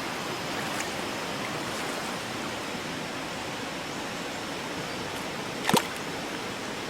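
Steady rush of flowing river water. A single sharp knock stands out near the end.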